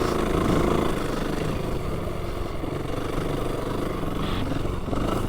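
Vehicle engine running under load as it drives along a sandy track, its pitch shifting as the revs change.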